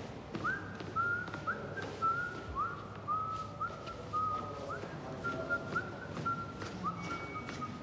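Someone whistling a tune: a string of short notes, about two a second, each sliding up quickly and then held, drifting slightly lower in pitch as it goes.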